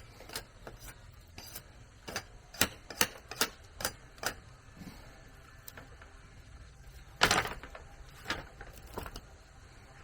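A series of sharp knocks or taps, about two or three a second, then a pause and one louder knock with a brief ring, followed by two more knocks.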